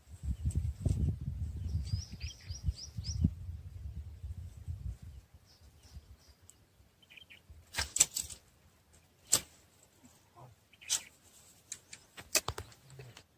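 Outdoor ambience by a pond: wind rumbling on the microphone for the first five seconds, with a small bird giving a quick run of about six high chirps around two to three seconds in. In the second half, a few sharp clicks or knocks, the loudest about eight seconds in.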